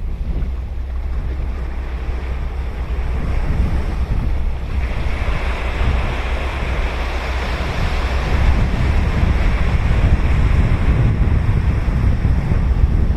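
Ocean surf on a sandy beach: a wave breaks about five seconds in and its wash keeps on, growing louder near the end, over a steady low rumble of wind on the microphone.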